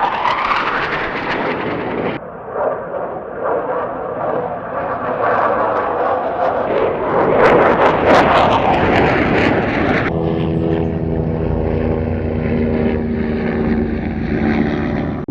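Airplane engine sound effects played back to back, with abrupt cuts about two seconds in and about ten seconds in. The loudest stretch comes around the middle. The last clip is a steady engine drone with a held hum.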